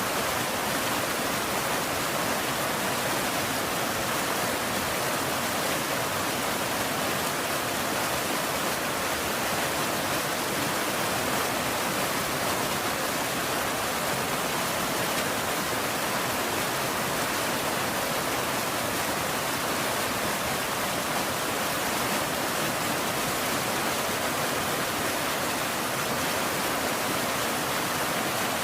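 Steady rain, a dense even hiss with no single drops or thunder standing out.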